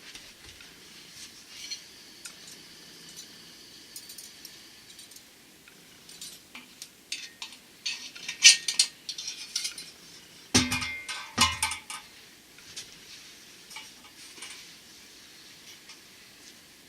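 Small metal items clinking and clicking as they are handled, with a cluster of louder knocks about ten and a half to twelve seconds in.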